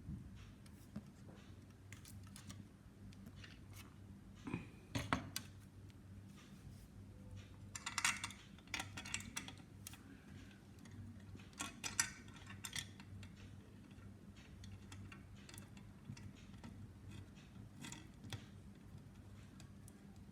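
Scattered small clicks, taps and rustles of a 1:150 scale model airliner and its display stand being handled and fitted together, in short clusters with pauses between. A faint steady low hum runs underneath.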